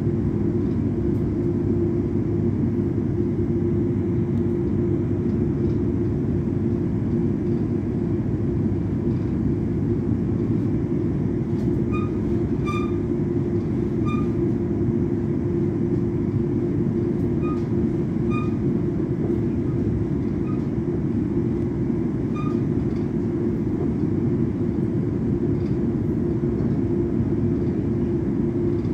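Electric train running steadily along the line, heard from inside the carriage: a continuous rumble of wheels on track with a steady low hum. A few short, high chirps come and go around the middle.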